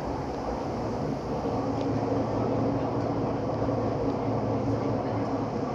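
Minatomirai Line limited express running through its tunnel, heard from inside the car: a steady rumble of wheels on rail with a low hum, swelling slightly in the middle.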